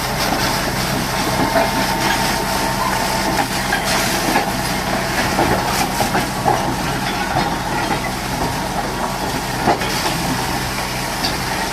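A pressure washer's water jet spraying with a steady hiss while an engine runs steadily underneath, with scattered small knocks and clatters.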